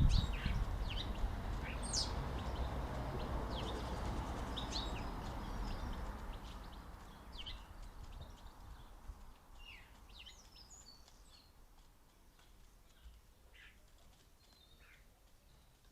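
Wild garden songbirds giving short chirps and calls over a low rumbling background noise that fades away during the first half.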